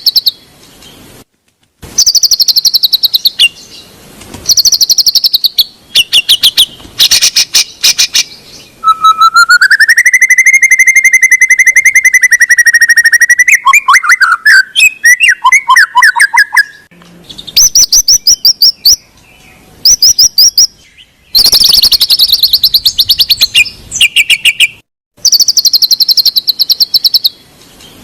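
White-rumped shama (murai batu) song played loudly as a lure track to coax a reluctant shama into singing. It comes in separate phrases of fast high trills and chatter, with one long rising whistle near the middle, and the phrases are divided by abrupt cuts.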